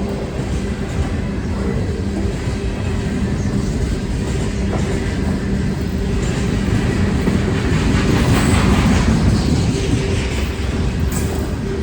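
A train rolling past on the tracks: a steady low locomotive drone with wheel and rail noise, growing loudest about eight to nine seconds in.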